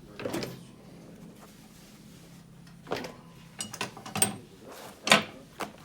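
Scattered knocks, clicks and clinks of small parts and tools being handled, a few sharp ones in quick succession near the middle and a loud knock near the end, over a faint hum that fades out in the first couple of seconds.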